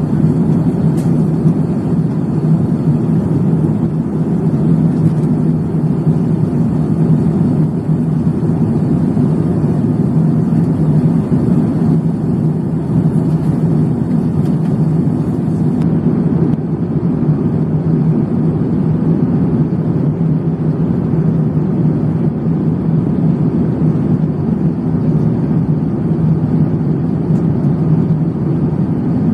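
Steady, loud drone of cabin noise inside a jet airliner in flight: engine and airflow noise, strongest in the low range and unchanging throughout.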